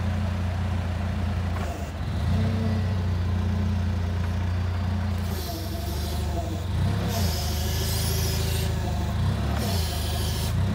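Truck engine running steadily with a deep hum, and three bursts of hiss in the second half.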